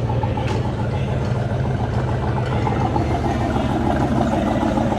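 Engine of a classic car or truck running steadily close by, without revving.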